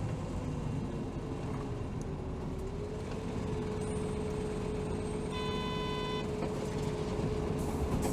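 Cabin running sound of a 2007 Hino Rainbow HR city bus: a steady engine and drivetrain drone with a held whine that steps up slightly about three seconds in. An electronic tone sounds for about a second, about five seconds in.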